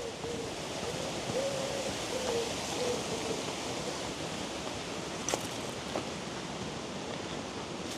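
Strong wind rushing steadily over a DJI Mic 2 clip-on microphone fitted with its furry wind muff. A faint wavering tone runs through the first few seconds, and there are a couple of light clicks later.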